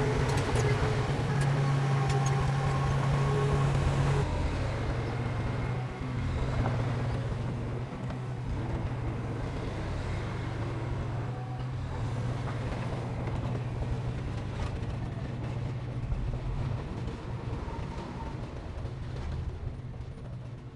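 Heavy diesel engine of earthmoving equipment running steadily under load with a deep, even drone. Its level steps down about four seconds in and eases off near the end.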